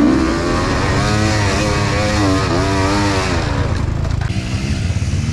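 Enduro motorcycle engines running and revving, their pitch rising and falling repeatedly for the first few seconds before settling.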